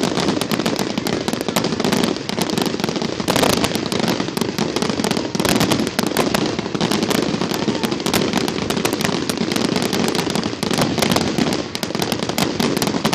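Fireworks display: dense, continuous crackling and popping of many exploding fireworks, with one bigger burst about three and a half seconds in.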